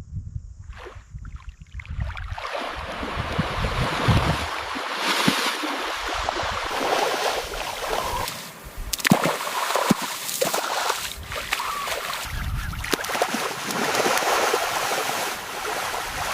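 Water splashing and churning for many seconds, with scattered thuds and knocks, as animals rush and thrash through shallow water.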